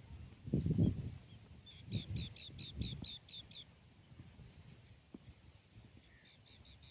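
An animal calling in rapid trains of short chirps, about four a second: one burst about two seconds in and another near the end. Louder low rumbles, like wind or handling on the microphone, come and go in the first three seconds.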